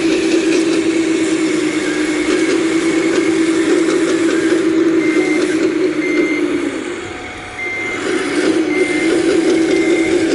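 Full-size excavator's diesel engine running steadily, its note sagging briefly about seven seconds in, with a travel alarm sounding short, regular high beeps as the machine moves.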